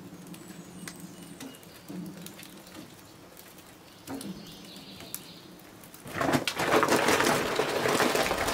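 A bird cooing three times at low level, each call about a second long. From about six seconds in, a much louder crackling hiss takes over.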